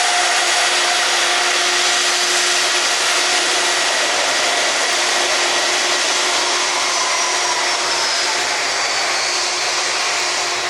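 Ilyushin Il-76 jet freighter's four turbofan engines running at high power: a loud steady jet roar with whining tones. From about seven seconds in, some of the whine falls in pitch as the aircraft moves past.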